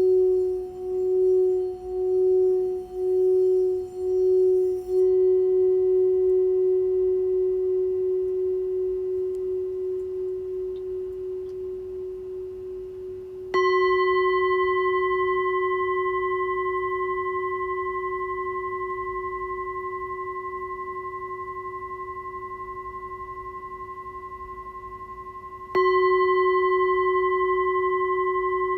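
Singing bowl ringing. For the first few seconds its tone wavers in a steady pulse, then it rings smoothly and fades. It is struck about halfway through and again near the end, and each strike rings out with bright overtones over the deep hum, slowly dying away.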